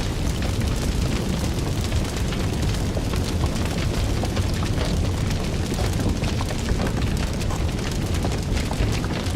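A fire burning, with a steady low rumble under constant small crackles and pops.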